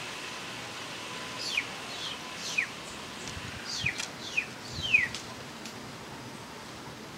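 A bird calling in a quick run of about seven short chirps, each sliding down in pitch, for a few seconds.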